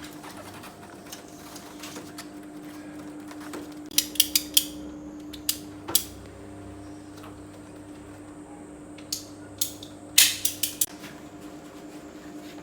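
Metal tools and fittings clinking and clanking as they are handled during air-conditioner installation work, in short clusters: four quick clinks about four seconds in, a couple more around six seconds, and another run near ten seconds, over a steady hum.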